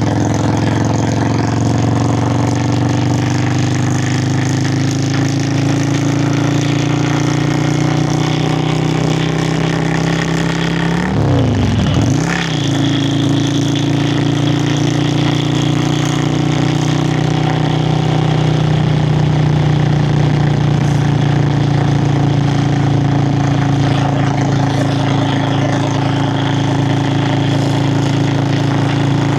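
Yamaha Virago XV535 V-twin engine and exhaust under way on the road, with wind noise over it. The engine note climbs slowly, dips sharply and comes back about eleven seconds in, then holds steady.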